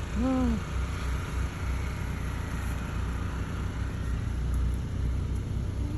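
Car driving on snow, a low steady rumble from the engine and tyres. About half a second in there is one short voice-like call.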